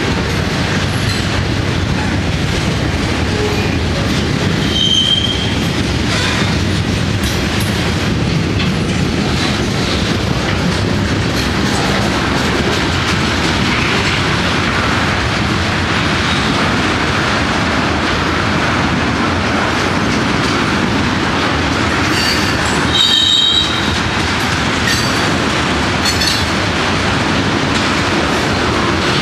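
Freight train's boxcars and tank cars rolling past, a steady rumble of steel wheels on the rails. Brief high-pitched wheel squeals cut in about five seconds in and again a few seconds before the end.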